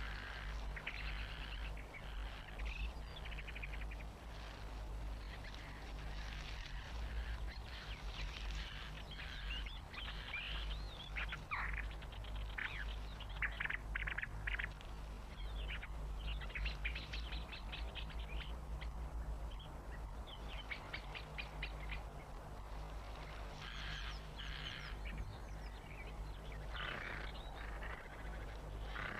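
Birds calling and chattering in a long run of short calls and fast rattles, over a steady low hum.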